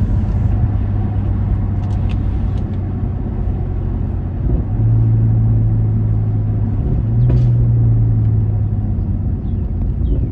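Turbocharged B58 inline-six car engine heard from inside the cabin while driving: a steady low drone that swells louder about five seconds in and steps a little higher in pitch about two seconds later, as the throttle and revs change.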